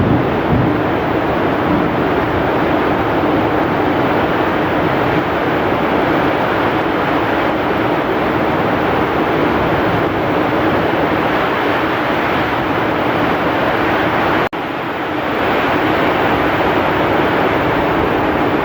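Heavy rain pouring steadily with strong wind, a dense, even hiss. The sound drops out for an instant about fourteen and a half seconds in, then carries on.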